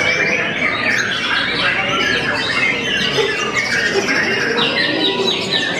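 White-rumped shama (murai batu) singing a continuous, rapid run of varied chirps, trills and whistles without pause.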